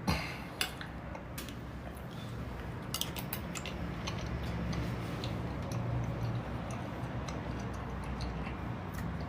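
Scattered light clicks and taps of someone eating from a bowl of stew, over a low steady hum.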